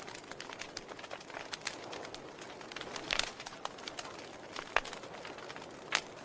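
Wood fire burning in a fireplace, crackling: irregular sharp pops and snaps over a soft steady hiss, with the loudest pops about three seconds in, near five seconds and just before the end.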